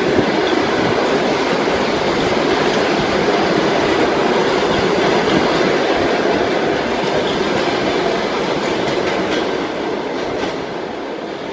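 Passenger train behind a ChS7 electric locomotive passing close by: a steady rumble and rattle of carriage wheels on the rails, easing off slightly toward the end.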